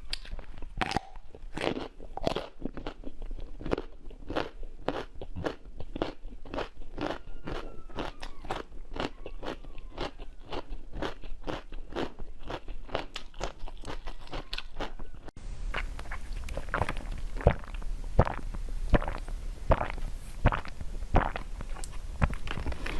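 Close-miked crunching and chewing of frozen treats: crisp bites follow one another several times a second. About two-thirds of the way through the sound cuts to sharper, louder crunches.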